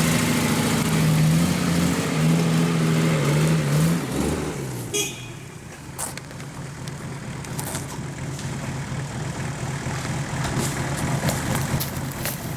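An off-road 4x4's engine pulling hard at high revs for about four seconds, then easing off to lower, steadier running. There is a single knock just after it eases off.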